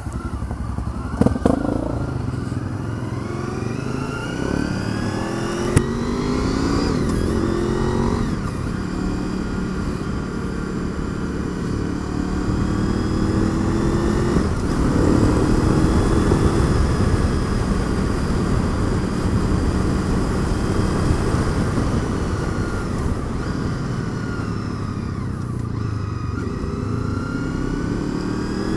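1998 Honda VFR800's V4 engine pulling away and accelerating up through the gears, its pitch climbing and then dropping at each shift, over steady wind and road noise.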